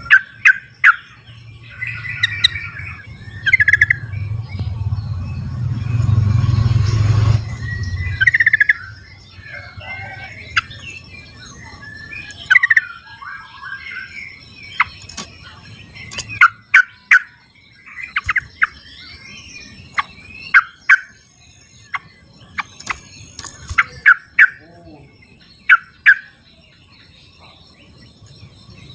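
Yellow-vented bulbuls (trucukan) calling in the wild: short bubbly chirping phrases and sharp single notes, several birds answering each other. A low rumbling noise runs under the calls for the first eight seconds and is loudest around six to seven seconds in.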